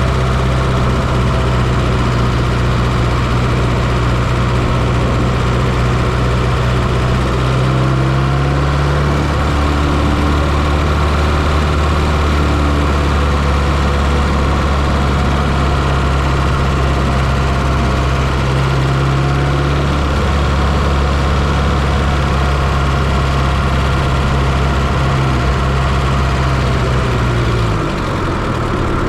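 1995 Fiat Coupe 2.0 16V turbo engine running steadily, heard from inside the engine bay. Its note shifts slightly about eight seconds in and drops near the end.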